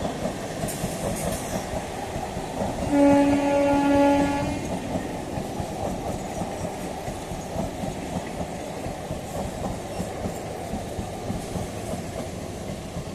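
Electric local train (EMU) running along the track with a continuous rumble of wheels on rails; about three seconds in, its horn sounds once for about a second and a half.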